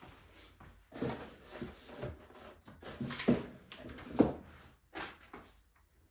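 Irregular knocks and clunks of tools and metal hardware being handled, with two sharper hits about three and four seconds in, dying away about five seconds in.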